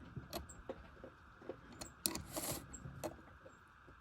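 Faint clicks and light metallic handling of a chainsaw chain and sharpening file, with one short rasping stroke about two seconds in.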